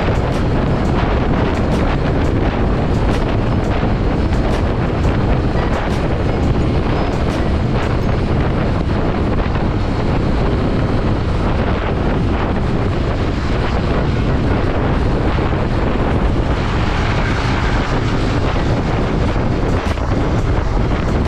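Wind rushing over the microphone of a moving motorcycle, over the steady noise of its engine and the road.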